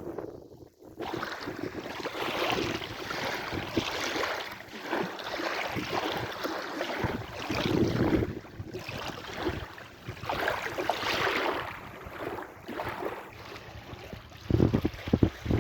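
Sea waves washing in and out, the rush of water swelling and fading every few seconds, with wind gusting on the microphone near the end.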